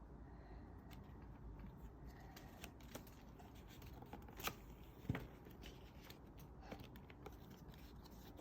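Faint rustling and handling of construction paper as cut paper pieces are stuck down, with scattered small clicks and two sharper taps about halfway through.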